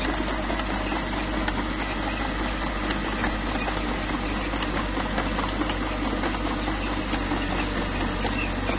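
Small bulldozer's diesel engine running steadily, with light clatter throughout.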